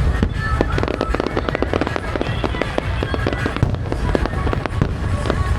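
A fireworks display going off: a dense, continuous crackle of many small cracks and pops over low booms, with music playing underneath.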